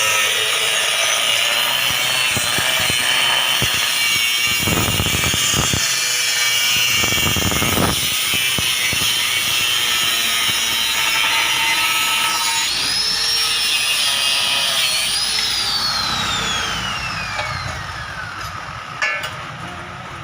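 Power tool with an abrasive cut-off disc cutting steel bar: a steady, high-pitched grinding whine. Near the end the tool is switched off and its pitch falls as the disc spins down.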